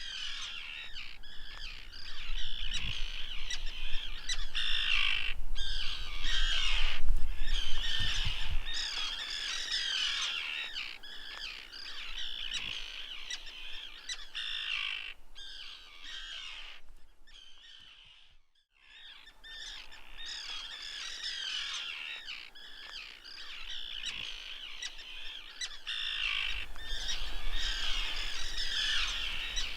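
Many birds chirping and squawking at once, a dense, continuous chorus, broken by a brief gap about two-thirds of the way through.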